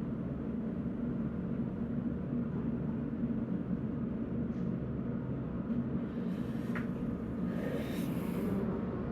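Steady low mechanical rumble with a hum, with a short hiss about six seconds in, a tick, and a longer hiss around eight seconds.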